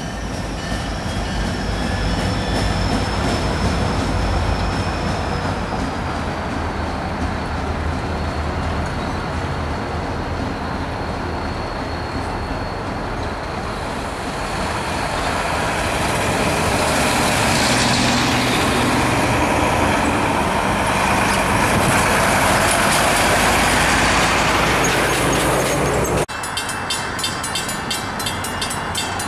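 Train passing on the line: a steady rumble of wheels on rail, with a faint high squeal that sinks in pitch over the first several seconds. It grows louder past the halfway mark, then breaks off suddenly near the end into a rapid, even ticking.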